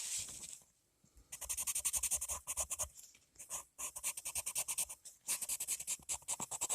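Colored pencil scribbling rapidly back and forth on paper, in three runs of quick strokes about eight or nine a second with short pauses between.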